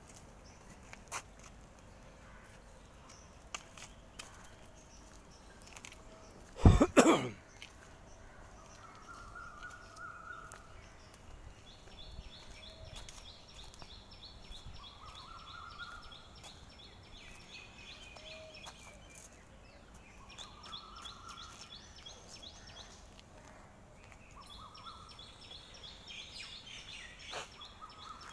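Outdoor ambience with a bird giving a repeated call, a rising-then-falling whistle about every five seconds. A fast, high chirring trill runs from about halfway on, and there is one short loud thump about seven seconds in.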